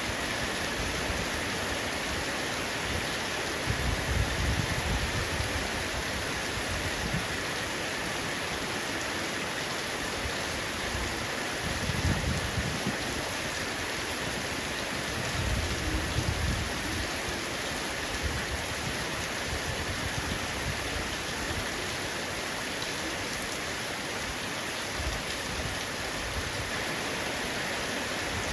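Heavy rain drumming steadily on a roof, an even hiss of many drops. A deeper low rumble swells up briefly three times, around 4, 12 and 16 seconds in.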